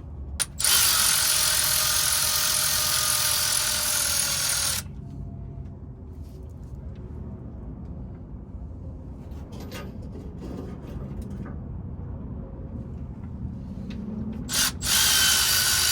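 Power tool's motor whirring in two runs: one from just after the start lasting about four seconds, and a second starting near the end.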